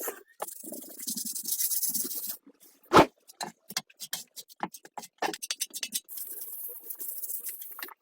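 Scattered clicks, taps and scratches of small parts being handled, with one sharp knock about three seconds in and stretches of hissy scraping.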